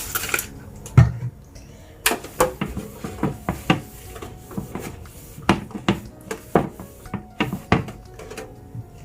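Irregular knocks and clatter of containers and fridge bins being handled and set down, with a heavier thump about a second in.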